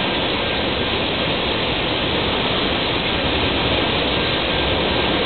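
Tank cars of an oil train rolling past: a loud, steady rush of steel wheels on rail, with a faint steady high tone underneath.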